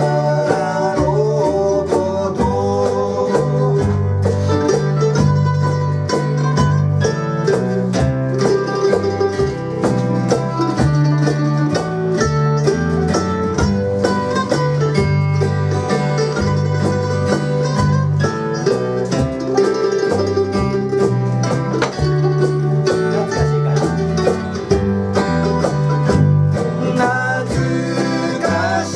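Live acoustic music: plucked guitar strings playing a country-style song with a steady rhythm and bass line.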